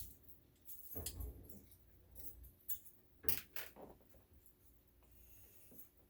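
Scattered clicks, taps and light knocks of small parts and tools being handled during assembly, the loudest a cluster about a second in and a pair of sharp knocks around three and a half seconds in.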